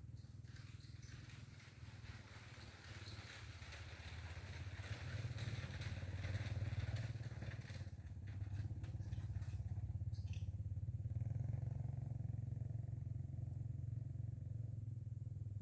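A motor running steadily with a low hum that grows louder over the first several seconds, with crackling and clicking noise over it in the first half.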